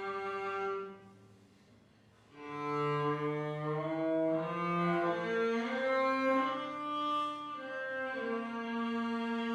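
Cello playing a slow hymn melody: a held note fades out within the first second, a brief pause of about a second and a half follows, then the bowed melody resumes in long sustained notes.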